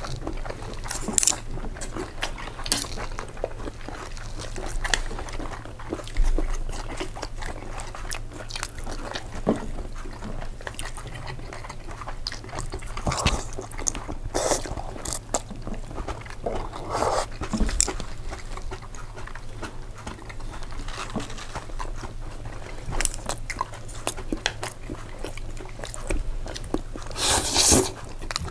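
Close-miked eating sounds: a person chewing a mouthful of pasta, with irregular wet smacks and clicks and a few louder bursts, the strongest near the end.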